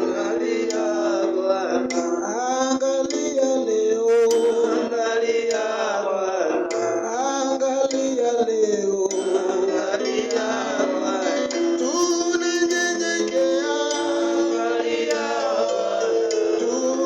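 A slow worship song: a voice singing over sustained keyboard chords.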